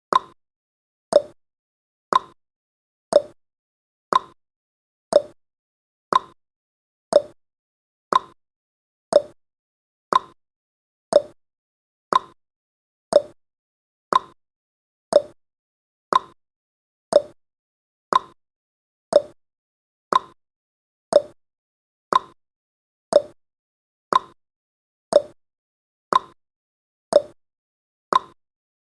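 Countdown timer sound effect ticking steadily once a second, each tick a short pitched knock that dies away quickly.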